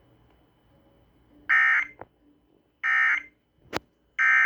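Emergency Alert System end-of-message data tones over a radio broadcast: three short, identical buzzing bursts of digital code about a second and a half apart, marking the end of the tornado warning. Two sharp clicks fall between the bursts.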